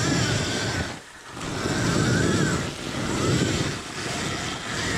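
Alta Redshift electric dirt bike being ridden: a thin, high motor whine rises and falls with the throttle over heavy wind rush on the microphone, easing off briefly about a second in.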